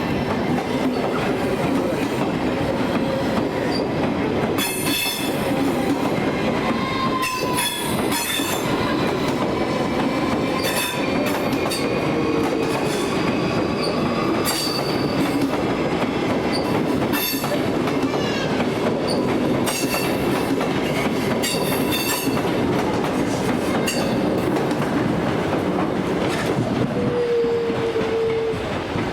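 A train rolling over the tracks with steady wheel noise. Its wheels click over rail joints again and again, and short wheel squeals sound a few times.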